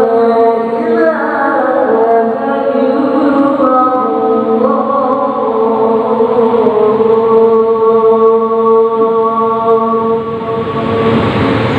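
A voice chanting in long held notes that step up and down in pitch, with a rising rush of noise near the end.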